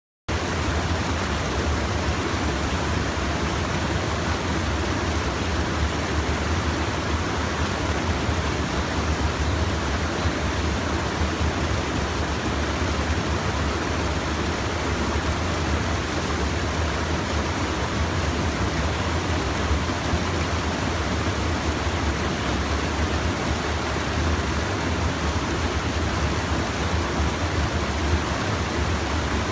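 Steady rush of a stream's water pouring over a small check dam, an even, unbroken noise with a low rumble underneath. It cuts in abruptly just after the start.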